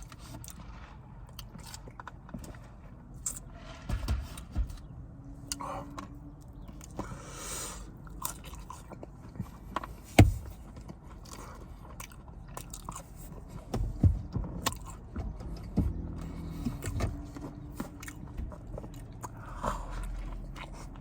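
Close-up mouth sounds of someone eating a fried chicken sandwich and waffle fries: biting, chewing and small wet clicks, with one sharp knock about ten seconds in.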